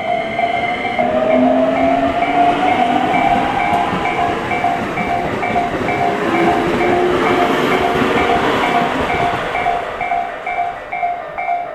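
Electric train passing a level crossing while the crossing's warning bell rings steadily, about two strokes a second. The train's running noise swells and falls away near the end, with faint whining lines in it that rise slowly in pitch.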